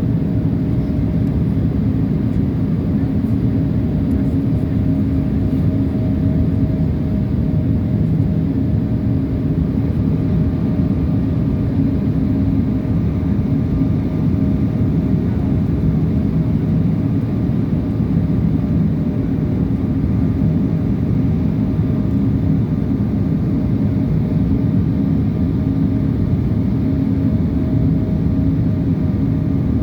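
Steady drone of an airliner in flight heard from inside the cabin: an even rush of engine and air noise with a constant low hum.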